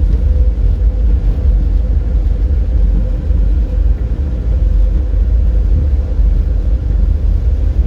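A car driving along at steady speed: a strong, even low rumble of road and engine noise with a faint constant hum over it.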